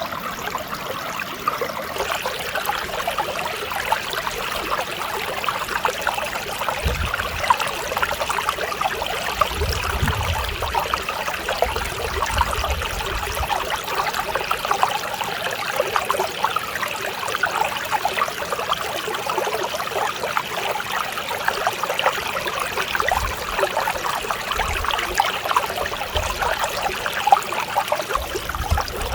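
Mountain stream running, a steady, gentle trickling and babbling of water.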